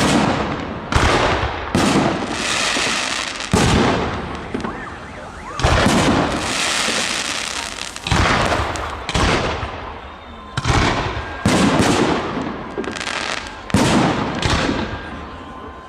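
Fireworks display shells bursting overhead, a loud sharp bang every second or so, several trailing off in a crackling hiss.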